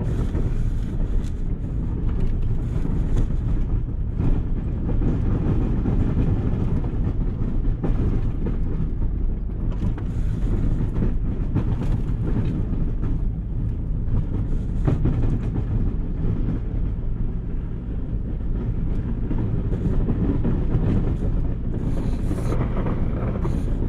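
Plow vehicle's engine running steadily as the plow blade scrapes and digs into the driveway, with a few knocks. One skid shoe has come off, so that side of the blade rides on the ground and digs in.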